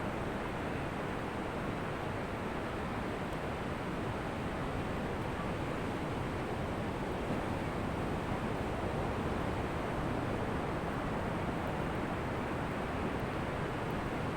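Ocean surf washing onto a beach, a continuous steady rush with no distinct separate crashes.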